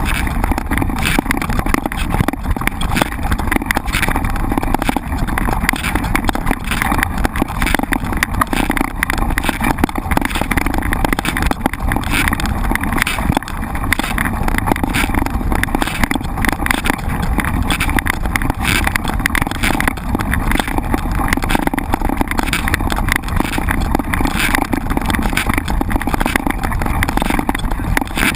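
Mountain bike riding over rough ground: a steady rolling noise with frequent irregular rattles and knocks from the bike.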